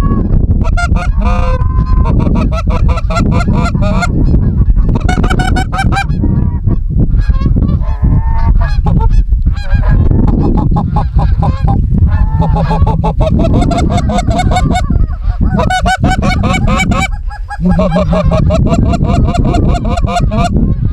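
Geese honking and clucking in rapid, overlapping runs of short calls, with one brief pause near the end.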